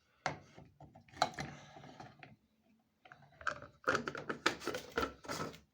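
Hard plastic clicks and knocks from handling the washing machine's drain pump filter. There are a few at first, then a short pause, then a quick run of clicks in the second half.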